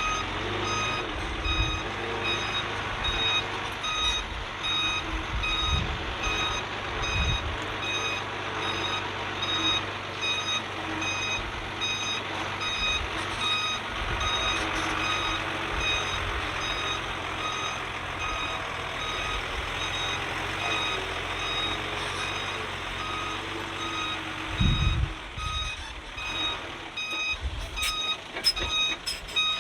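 A heavy machine's reversing alarm beeping steadily over the engine's running, with a couple of deep thuds near the end.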